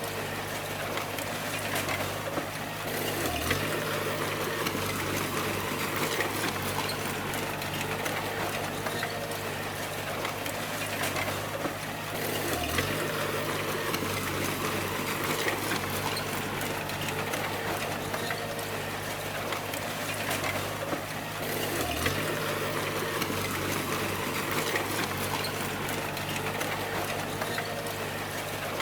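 Bulldozer's diesel engine running steadily with a hissing, rushing haze over it. Its low note dips briefly about every nine seconds as the load changes through the pushing cycle.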